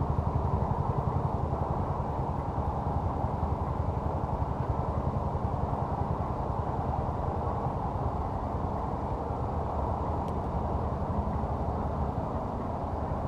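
An engine running steadily at idle: a low, even rumble with a fast flutter and no change in speed.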